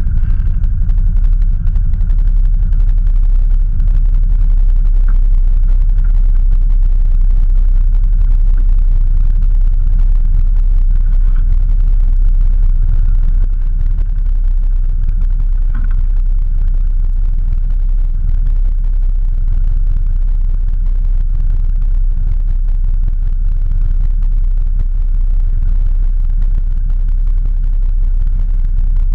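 Off-road vehicle's engine idling as a steady low rumble, picked up through the bonnet it sits under; it drops slightly in level about halfway.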